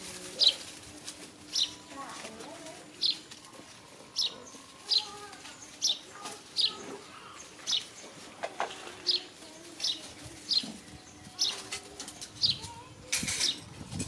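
A small bird chirping: short, high chirps that repeat about once a second, each falling slightly in pitch, with a short burst of noise near the end.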